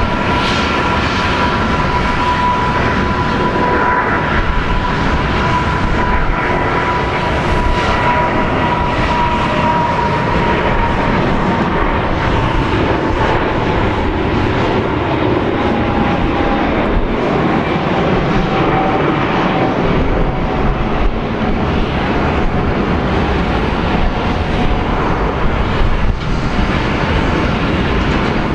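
Boeing 777-200 jet engines running loud and steady, with a whining tone that slowly falls in pitch.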